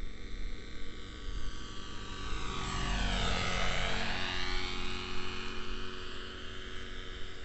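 Neo Caliber 50 RC helicopter flying on its carburetted glow engine, the engine note and rotor noise swelling as it passes close by about three seconds in, then easing off again.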